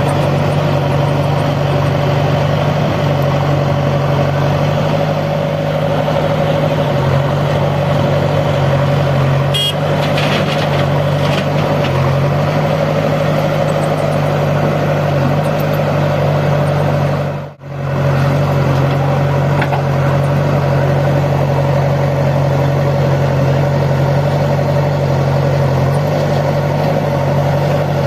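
A heavy machine's engine running at a steady idle, an even low hum with no revving. The sound cuts out for a moment about two-thirds of the way through and comes straight back.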